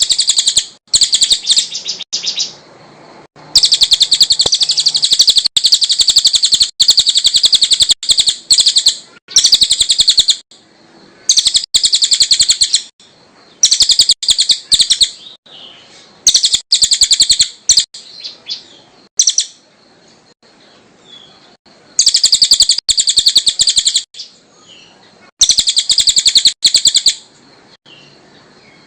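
Cililin songbird singing in repeated phrases of fast, high, chattering trills, each one to two seconds long with short pauses between.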